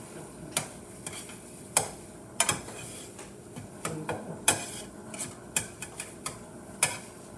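Eggs cooking in a pan, stirred with a utensil that clicks and scrapes against the pan every second or so, over a faint sizzle.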